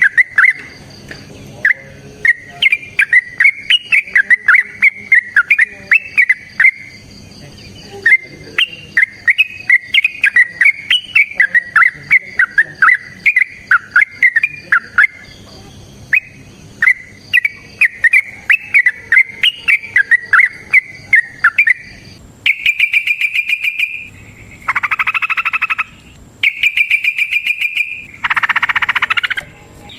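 Yellow-vented bulbul (trucukan) singing loud, rapid bubbly phrases of chattering notes with short pauses. From about two-thirds of the way in it gives long, fast rattling trills in bursts of a second or two (the 'ropel').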